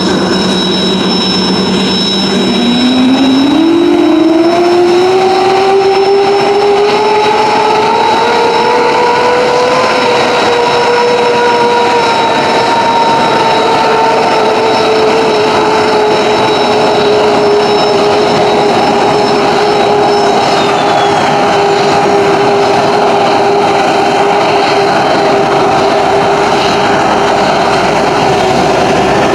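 F-15J Eagle's F100 turbofan engine starting: a whine climbs in pitch over several seconds as the engine spools up, then settles into a steady idle whine over a loud rush of jet noise. A thin high tone above it drops slightly about twenty seconds in.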